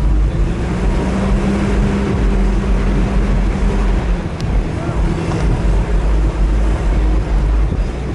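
Off-road vehicle driving, its engine running steadily under a heavy low rumble of wind on the microphone.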